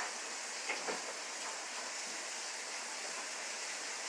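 Water running steadily from a tap into a tub: an even, unbroken hiss.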